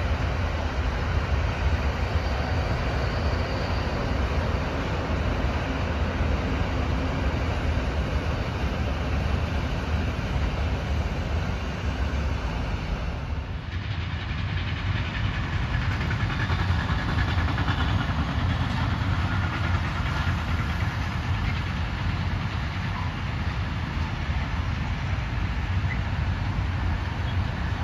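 Long freight trains of container and tank wagons rolling past, a steady rumble of wheels on the rails. There is a brief drop about halfway through, where one passage gives way to the next.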